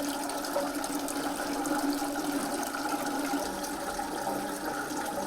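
Recorded waterfall playing over the exhibit's speakers: a steady rush of falling water, with a faint steady low tone beneath it.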